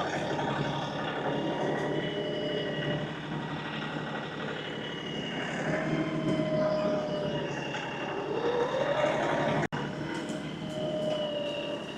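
LS XR315 compact tractor running under load while its front grapple is worked, a steady engine sound with a thin whine over it. The whine rises in pitch shortly before the sound cuts out for an instant near the end.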